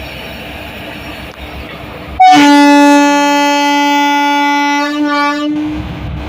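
Train locomotive horn sounding one long steady blast of about three seconds, beginning about two seconds in, over a steady background rumble of the train at the station.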